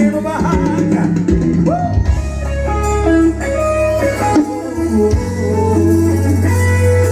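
Recorded music with guitar, bass guitar and drums, played back at a loud, steady level through a sound system under test, with a heavy, sustained bass line.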